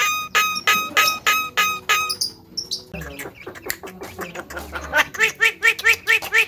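Javan myna (jalak kebo) calling: a run of short, evenly repeated notes about three a second. A faster series of short rising-and-falling notes follows in the second half.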